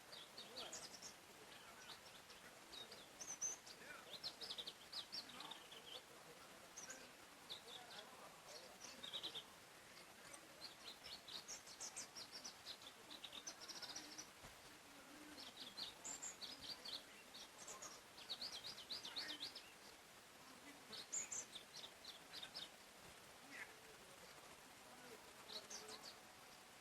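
Faint forest birdsong: several small songbirds chirping and trilling in short, high phrases, one after another, over a soft steady background hiss.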